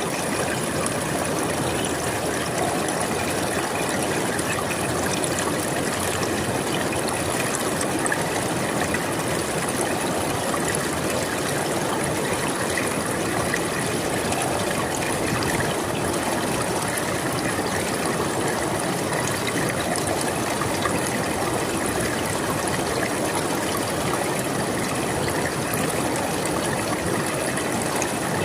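River water flowing and rippling in a steady, even rush, with a fine splashing texture and no change in level.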